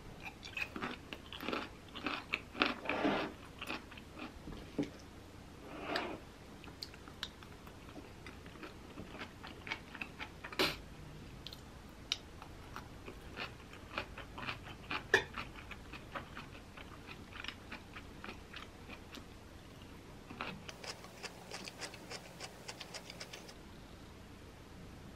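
A person chewing and crunching blanched broccoli close to the microphone, densest in the first few seconds. Lighter chewing and sharp clicks of chopsticks and a metal spoon follow.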